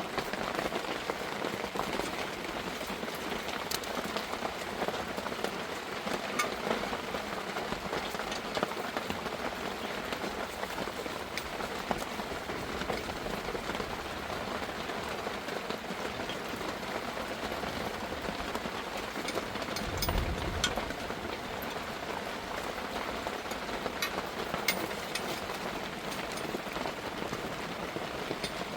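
Steady heavy rain falling, with scattered sharper drop ticks and a brief low rumble about twenty seconds in.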